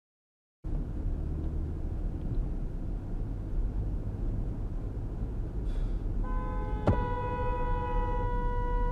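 Steady low road and engine rumble of a moving car, then about six seconds in a car horn sounds one long steady blast of about two and a half seconds, with a single sharp click just after the horn starts.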